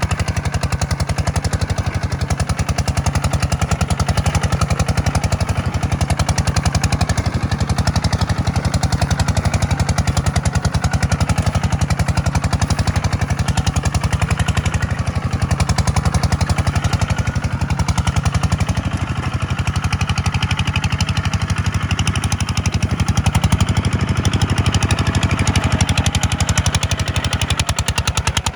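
Kubota farm tractor's diesel engine running steadily, a fast, even clatter of firing pulses.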